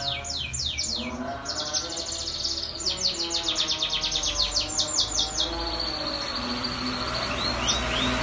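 Domestic canary singing: a run of quick falling whistled notes, then a fast rattling trill, ending in a held high note. A lower, steady, droning sound runs beneath it at times.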